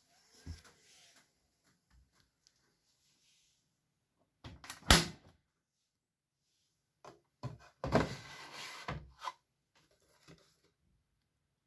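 Knocks and clatter of a Beko WML 51211 washing machine being handled: one sharp knock about five seconds in, then a short stretch of clattering around eight to nine seconds.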